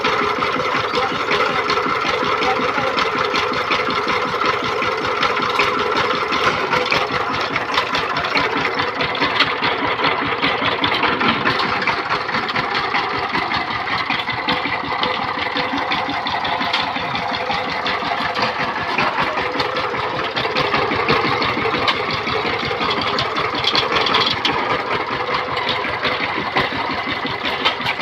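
Power tiller diesel engine running steadily with a fast, even knock.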